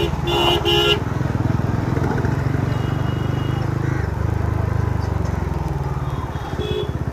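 Kawasaki ZX-10R inline-four motorcycle engine running at low speed, a steady low pulsing. A vehicle horn toots twice within the first second, and a fainter horn sounds twice later.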